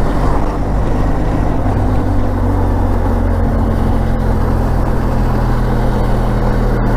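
Motorcycle engine running steadily while riding on the road, with wind and road noise; the engine note shifts slightly about three seconds in.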